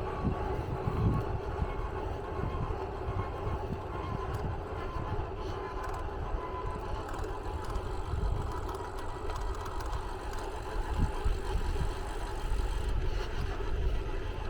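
A vehicle in motion: a steady low rumble with a faint, steady higher tone running through it.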